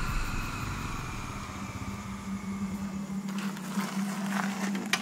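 Motorcycle engine running down with a falling whine, its low rumble dying out about three seconds in as the bike stalls. A low steady hum stays underneath, with a few sharp clicks near the end.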